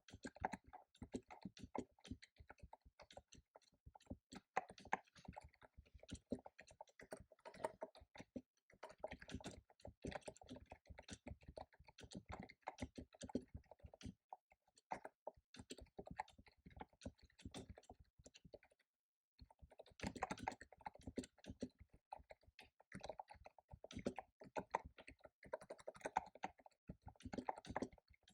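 Fast typing on a computer keyboard: dense runs of key clicks in bursts, broken by short pauses.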